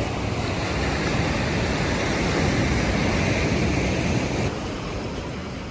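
Surf washing on a sandy beach, mixed with wind buffeting the microphone; the rush eases a little about four and a half seconds in.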